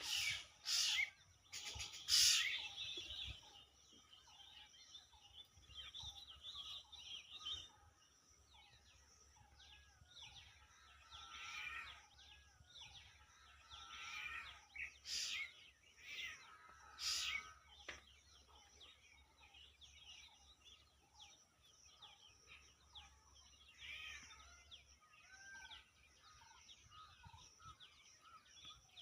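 Birds chirping and calling, many short calls scattered throughout, with a few louder, sharper calls in the first few seconds and twice more past the middle.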